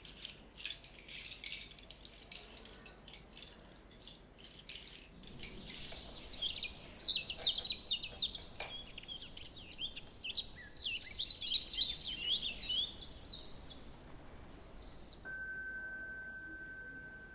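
Sound-bath instruments: a soft rattle of a shaker, then a long run of quick, high bird-like chirps. Near the end a single bright chime tone is struck and rings on, slowly fading.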